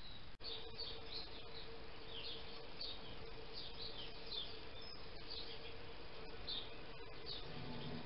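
Birds chirping: many short, high, falling chirps, several a second, over a faint steady hum and hiss, with a brief dropout less than half a second in.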